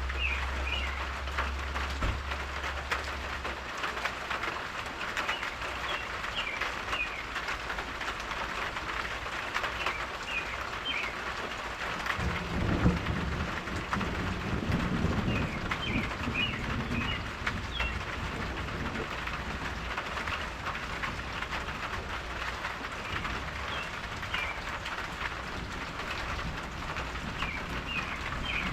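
Steady rain falling and pattering, with birds chirping on and off. A low rumble swells and fades about halfway through.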